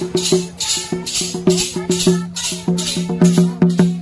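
Folk music: a tuned hand drum beaten in quick, ringing strokes, with a shaker-like rattle swishing on a steady beat over it.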